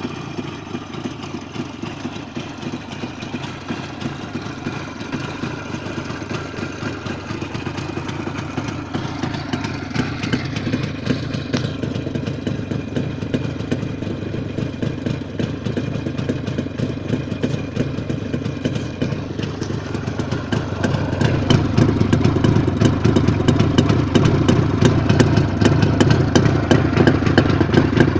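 IZh Jupiter-5 motorcycle's two-stroke twin-cylinder engine running steadily; it grows louder about two-thirds of the way through.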